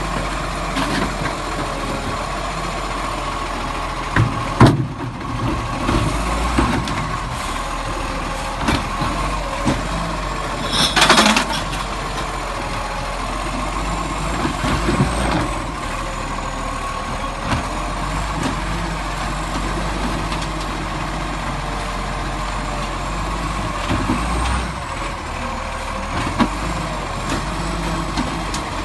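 Garbage truck engine running steadily, with sharp knocks and clatter, the loudest about five seconds in, and a short loud hiss of air about eleven seconds in.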